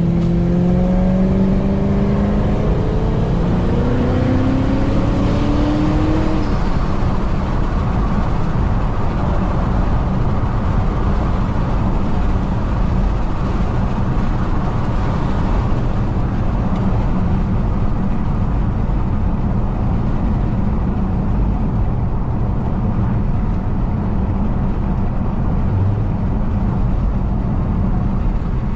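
Supercharged 4.6 V8 of a 2006 Ford Mustang GT pulling under acceleration, its pitch rising over the first six seconds or so, then settling into a steady drone with road noise as the car cruises.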